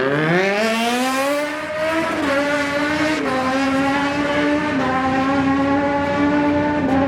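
Superbike engine revved up over about two seconds and then held at steady high revs, with small dips in pitch, as if staged for a launch.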